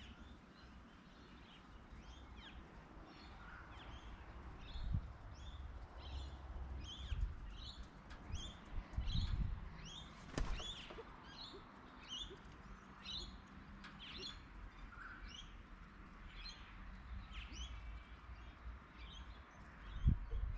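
Small birds chirping, a steady run of short high calls at about two to four a second, with occasional low rumbles and a single sharp knock about halfway through.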